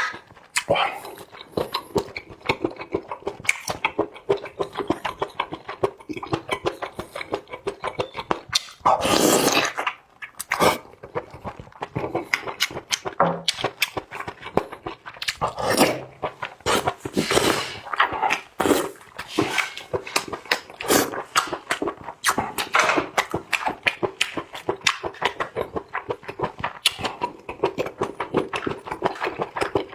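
Close-miked eating: wet chewing, lip-smacking and slurping, many quick clicky mouth noises with a few longer slurps.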